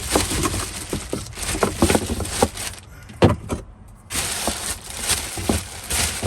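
Rummaging through a cupboard: irregular knocks, clinks and rustling as tins and packets are handled and pulled out, over a steady hiss.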